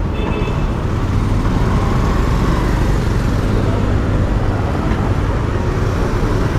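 A motorcycle running steadily on the move, with road and traffic noise around it.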